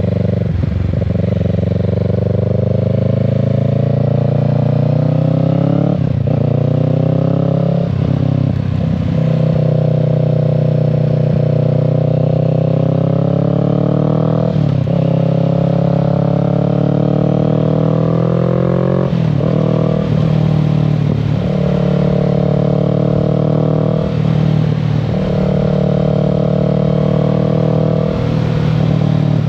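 Kawasaki Z650's 649 cc parallel-twin engine pulling under throttle while riding, its pitch climbing and then dropping sharply at each gear change or lift of the throttle, about seven times.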